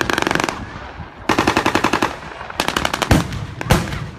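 Automatic gunfire in rapid bursts of about a dozen shots a second: a short burst at the start, a longer one a little after a second in, and another near the middle, followed by a few louder single cracks.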